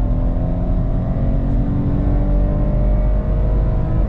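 Dodge Challenger's 3.6-litre V6 engine under full-throttle acceleration in sport mode, its pitch climbing steadily, then dropping at an upshift near the end.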